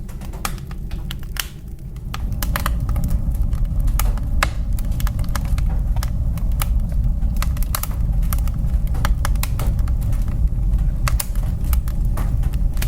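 Wood fire burning in a fireplace: irregular sharp crackles and pops over a steady low rumble, getting a little louder about two seconds in.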